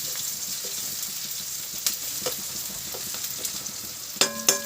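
Onions frying in hot oil and ghee in a pan, sizzling steadily while being stirred, with scrapes and knocks of the spoon against the pan and two ringing metal clanks near the end.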